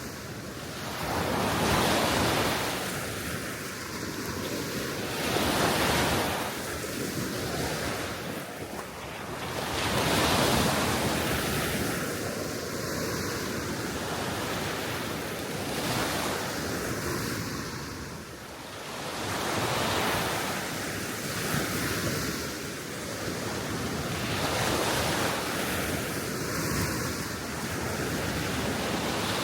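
Gentle sea waves washing onto the shore, swelling and easing every few seconds, with steady wind and some wind noise on the microphone.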